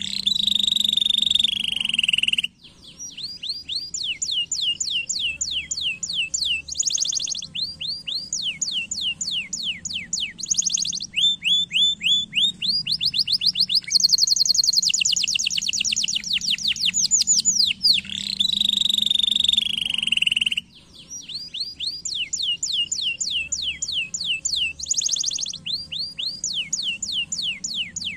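Domestic canary singing a long, varied song: fast trills of repeated downward-sweeping notes, broken by bursts of rapid buzzy rolls. The phrase changes every second or two, with two short breaks.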